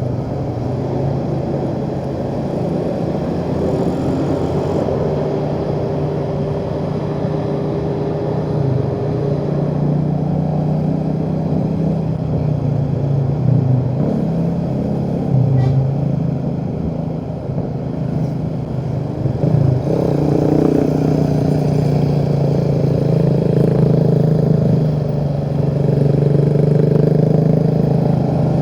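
Motorcycle engine running while riding, its pitch dipping and rising several times as the throttle is eased and opened on a winding road, over steady wind and road noise.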